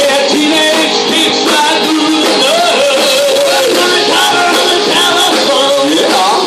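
Live rock band playing a cover song, with electric guitar and singing; near the end a pitch slides upward.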